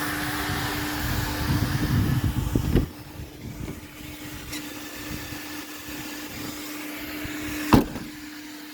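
Coin-operated car-wash vacuum running with a steady motor hum. For about the first three seconds the hose nozzle sucks noisily, then the rush cuts off with a click. A single sharp knock comes near the end.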